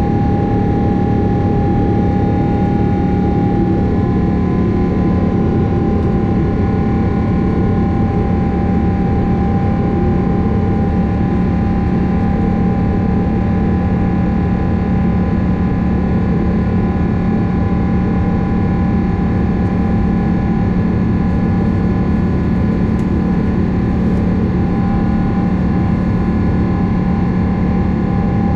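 Boeing 777-300 jet engines and airflow heard from inside the passenger cabin: a loud, steady rush with a low hum and a high whine, and a second whining tone joining about four seconds in.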